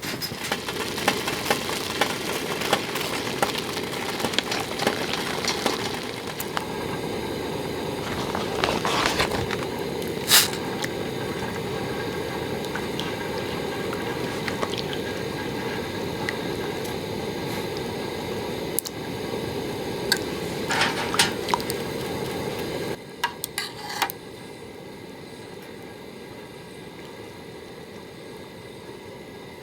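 Webfoot octopus and chives cooking in a pan: wet sizzling and squishing with occasional sharp clinks of a utensil. About 23 seconds in it breaks off to a quieter steady hiss.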